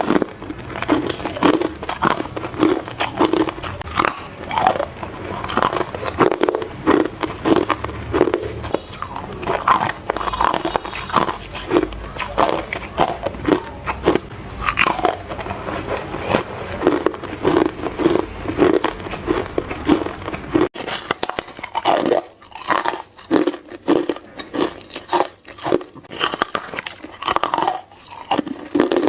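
Hard ice being bitten into close to the microphone: a long run of sharp, crunching bites in quick succession.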